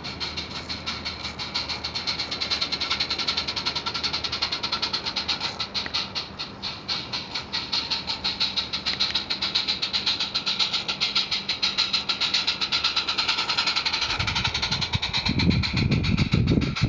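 Garden-scale narrow gauge model train running along the track, with a fast, even clatter. A low rumble joins in near the end.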